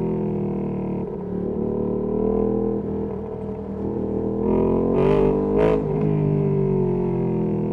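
Ducati Panigale V2S V-twin through a Termignoni exhaust, running at low revs as the pitch falls off the throttle, then two short, sharp throttle blips a little past the middle before settling back.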